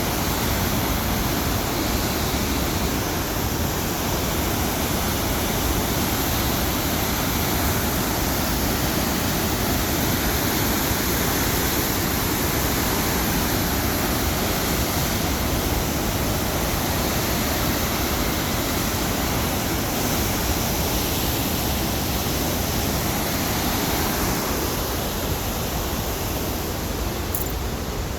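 Steady roar of rushing water, an even wash of noise with no breaks.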